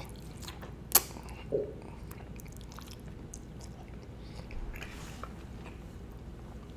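A person chewing food close to the microphone, with small wet mouth clicks and one sharp click about a second in.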